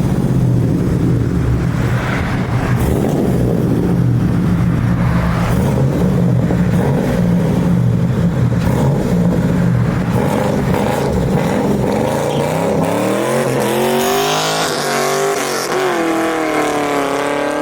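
Car engine idling steadily, then revved hard from about twelve seconds in, its pitch climbing, dipping and climbing again.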